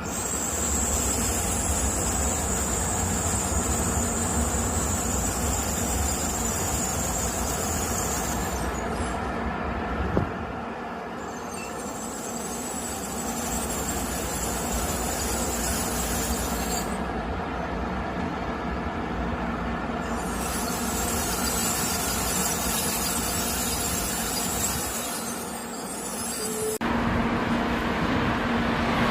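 Shinkansen bullet train running through a station: a steady rush of wheel and rail noise with a high hiss. The sound changes abruptly several times.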